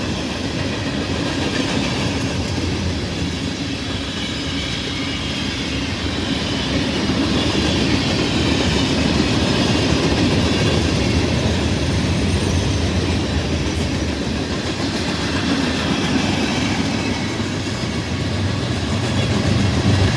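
Freight train cars rolling past on the rails, a steady clatter of wheels over the track.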